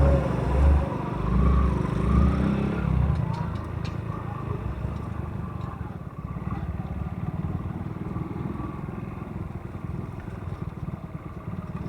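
A motorcycle's engine and road noise while riding: loud and uneven for about the first three seconds, then a steadier, quieter rumble that cuts off suddenly at the end.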